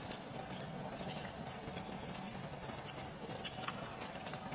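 Close-miked chewing of noodles, with a handful of short wet mouth clicks spread irregularly through it.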